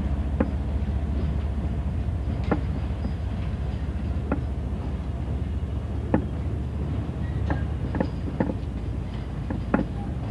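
Train rolling along the track: a steady low rumble broken by sharp metallic clicks and clanks every second or so, at irregular spacing.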